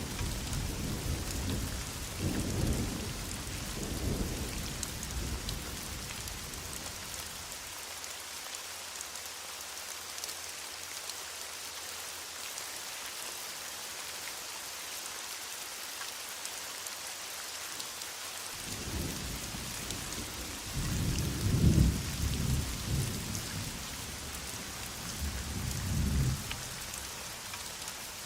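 Heavy rain falling steadily with distant thunder rumbling. One roll fades away over the first few seconds. A longer roll builds about two-thirds of the way in and is loudest shortly after, with a last rumble near the end.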